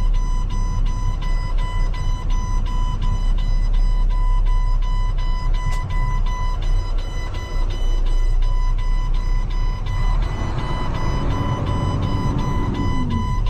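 A heavy truck's diesel engine running steadily under a rapid electronic warning beeper, about four high beeps a second without a break. A second, lower tone joins for a few seconds near the end and falls away.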